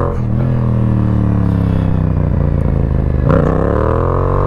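Yamaha MT-07 parallel-twin engine through a Yoshimura exhaust, engine speed slowly falling off the throttle, then revving sharply upward about three seconds in as the throttle is opened for another wheelie.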